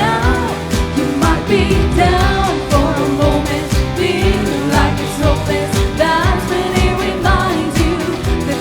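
A pop-style song: a singing voice carrying a melody over a full band with drums.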